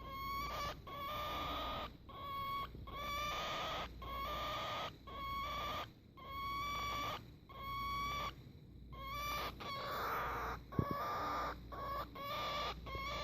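Female cockatiel making a strange repeated call: a string of short, nasal, rasping notes about one a second, each holding a steady pitch. A single sharp click comes near the end.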